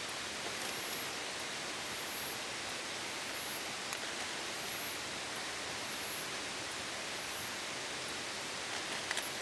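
Steady rushing noise with a faint, very high chirp repeating about every second and a bit, and a few light clicks near the end.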